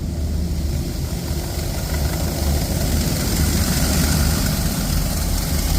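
High-pressure water jets of a touchless car wash spraying against the car, heard from inside the cabin over a steady low hum. The hiss of the spray grows louder from about two seconds in as the jets come closer.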